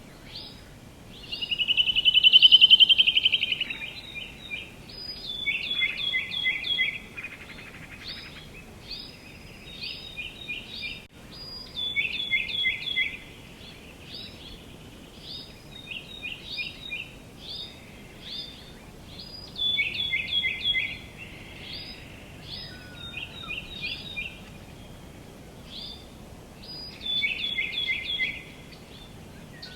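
Songbirds singing: short phrases of three or four quick, high, downward chirps, repeated every few seconds over a faint steady hiss. One louder, longer call comes about two seconds in.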